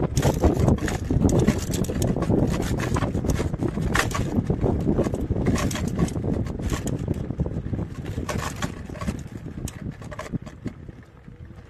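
Riding noise from a KuKirin G2 electric scooter: wind buffeting the microphone and the scooter clattering over the road, with many sharp knocks. It dies down over the last couple of seconds.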